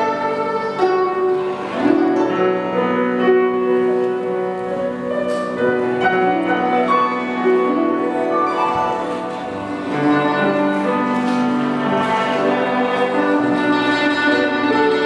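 Chinese instrumental music played live: long held melody notes from a bamboo flute over guzheng and piano accompaniment.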